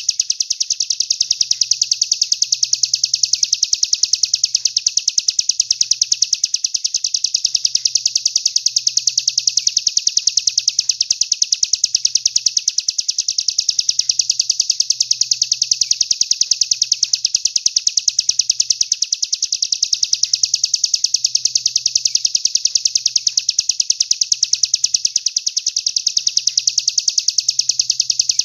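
A songbird's high, rapid trill, pulsing evenly many times a second without a break, with slight dips in loudness about every six seconds.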